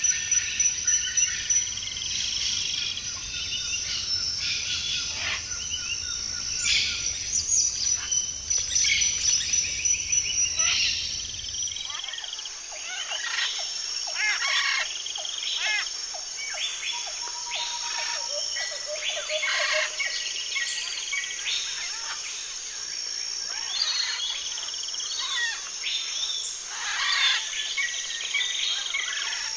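Tropical forest birdsong: several birds chirping and calling in quick, overlapping phrases over a steady high-pitched insect drone. A low background rumble stops abruptly about twelve seconds in.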